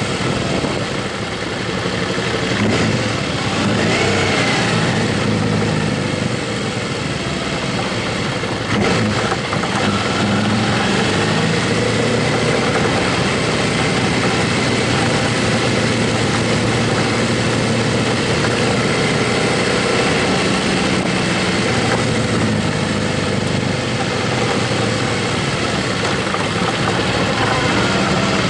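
Motorcycle engine running steadily while riding, with a steady rush of noise over the engine.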